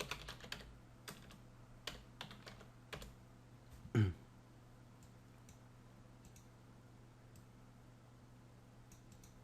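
Typing on a computer keyboard, quick runs of keystrokes for about three seconds, then a few scattered key clicks. A short vocal sound falling in pitch about four seconds in, over a faint steady low hum.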